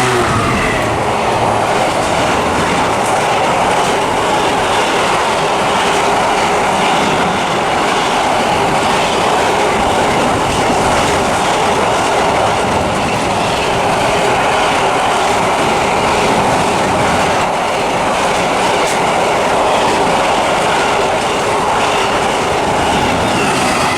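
Class 66 diesel-hauled freight train passing through at speed: a steady, loud rumble of wagon wheels on the rails with a clickety-clack over the rail joints.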